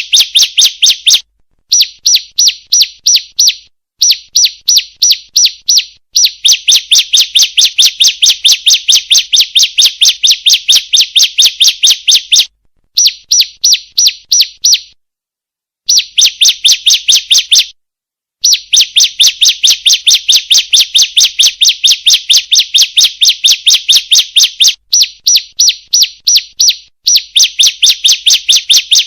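Female bar-winged prinia (ciblek) calling in fast runs of sharp, high chirps, several a second, broken every few seconds by short pauses. It is a lure call of the kind played to set caged ciblek singing.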